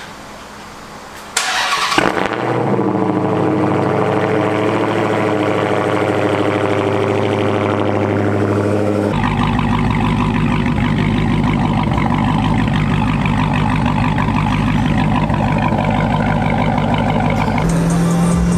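Dodge Charger Hellcat's supercharged 6.2-litre Hemi V8, its exhaust valves bolted open and its mid-mufflers deleted, starting with a sudden loud burst about a second in and settling into a steady idle. From about nine seconds in the engine note turns louder and deeper.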